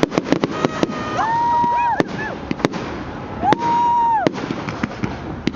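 Fireworks going off: a quick, uneven series of sharp bangs and crackles, with two steady, held whistles; the second, about three and a half seconds in, is the loudest moment.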